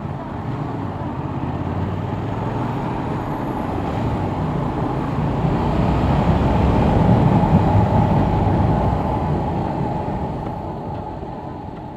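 Motorcycle engine running on the road under a strong rush of wind noise. It swells to its loudest about two-thirds of the way through, then eases off.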